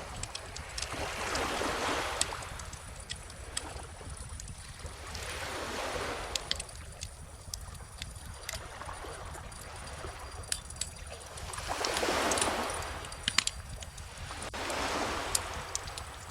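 Small ocean waves washing in and drawing back, swelling and fading four times, over the sharp pops and crackles of a wood fire burning.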